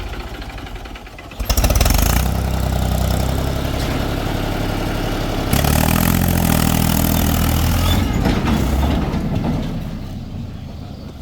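Heavy-machinery diesel engine revving hard about a second and a half in, rising again around the middle, then easing back down toward idle near the end, as it works under load.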